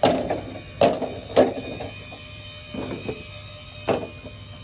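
Four or five sharp knocks or crunches, irregularly spaced, over a faint steady low hum.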